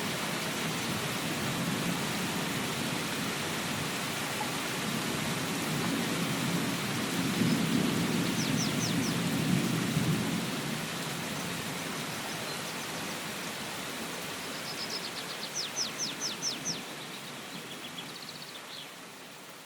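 Steady rain with a low rumble of distant thunder swelling about halfway through. Two short runs of quick high chirps come through the rain, and everything fades down near the end.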